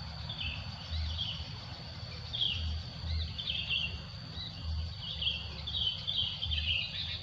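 Sooty-headed bulbuls (kutilang) chirping in short, repeated phrases over a steady high-pitched insect drone, with soft low thuds every second or two.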